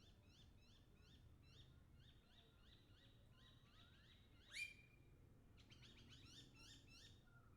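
Faint birdsong: several birds giving quick runs of short, high, repeated chirps that slur downward. A slow rising whistle leads into a louder, sharper call about four and a half seconds in.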